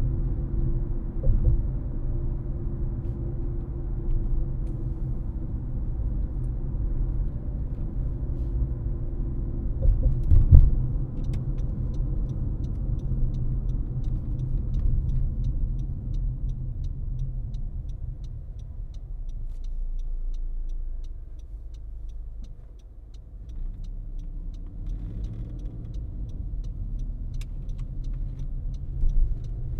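Car driving on a road, a steady low rumble of engine and tyres that eases off around twenty seconds in. There is a bump about ten seconds in, and after it a faint, even ticking about twice a second.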